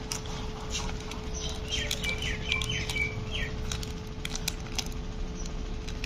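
Bird chirping: a quick run of about six short, high chirps about two seconds in, with scattered light clicks and a faint steady hum underneath.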